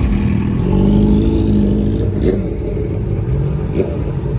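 Car engine running and being revved, its pitch climbing about a second in and then dropping back. Two sharp pops cut through, one about two seconds in and one near the end.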